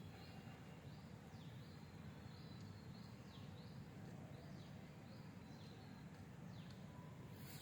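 Faint outdoor ambience: short high chirping calls, likely a bird, repeating about three times every two seconds over a low steady rumble.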